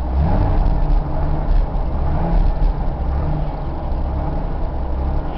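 1979 Chevrolet Camaro's inline-six engine running with a steady low rumble.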